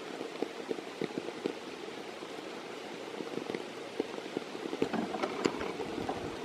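Rain falling, with many irregular drops ticking sharply close to the microphone; the ticking gets busier in the second half.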